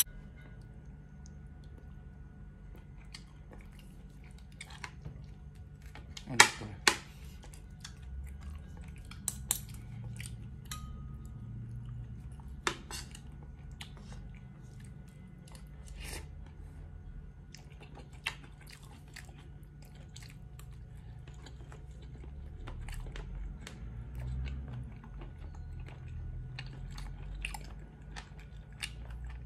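Chewing and mouth sounds of someone eating beef shank soup with rice. Sharp clinks of a metal fork and spoon on the plate come now and then, the loudest about six seconds in.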